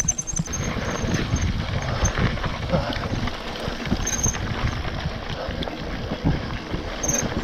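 Hardtail mountain bike rolling downhill on a rough dirt trail: tyres crunching over dirt and stones and the bike rattling with irregular knocks over the bumps.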